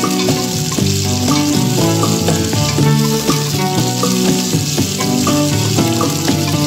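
Chopped garlic and onion sizzling steadily in hot oil in a stainless steel pot while a wooden spatula stirs them. Background music with pitched notes plays over it.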